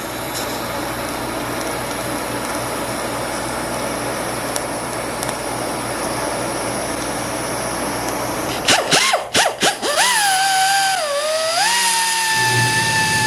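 Small high-speed power grinder revved in a few short blips, then held running with a steady whine that sags briefly as it bears on the work, over a steady rushing noise. It is grinding down a weld bead of nickel-bearing cast iron TIG rod, which is harder than the parent metal.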